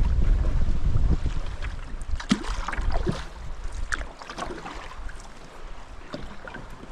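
Wind buffeting the microphone while a canoe is paddled, easing off about four seconds in. Scattered splashes and knocks of paddle and hull are heard throughout.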